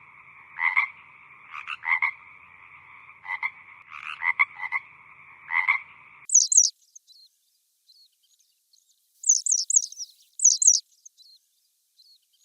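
Frogs croaking over a steady chorus of calling frogs, with loud croaks about every second or so, cutting off suddenly about six seconds in. After the cut come a few groups of short, high, falling chirps.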